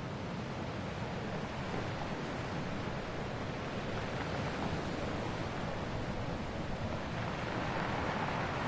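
Ocean waves washing on a shore, a steady rush of surf that swells a little near the end.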